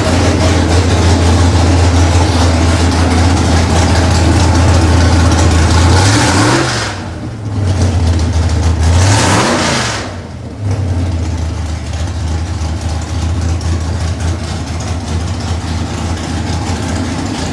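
363 cubic-inch small-block Ford V8 with a four-barrel carburettor idling, then blipped twice, the revs rising and falling back to idle each time.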